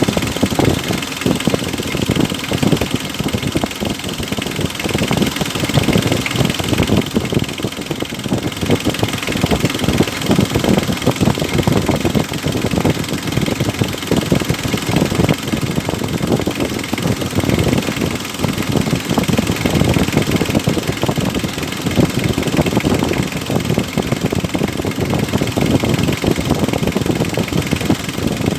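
Mitsubishi L300's 4D56 diesel engine running steadily at idle. The engine had been hard to start, with water found in the fuel filter; the mechanic suspects a failing feed pump or a very dirty fuel filter.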